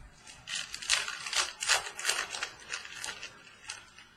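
Football trading cards being handled and slid against one another: a quick run of papery swishes and clicks in the first half, then a few lighter clicks.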